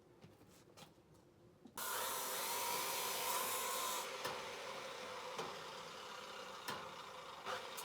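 A motor-driven power tool switches on suddenly and runs steadily with a whine, a few sharp knocks sounding over it.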